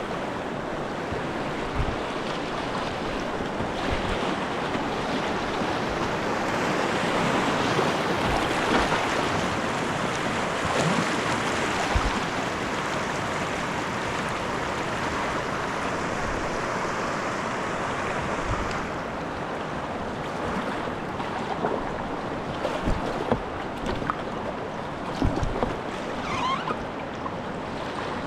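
River whitewater rushing around a kayak, louder and hissier for a stretch through the middle, then easing. Scattered short low thumps come through on the mic.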